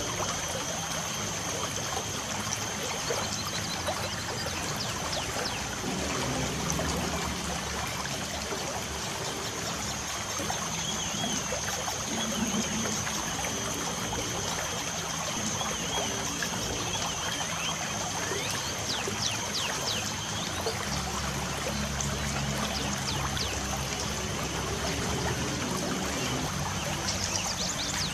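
Light rain falling steadily with a trickling, pattering wash, while birds chirp, with quick runs of high chirps about two-thirds of the way through and again near the end. A steady high tone runs under it.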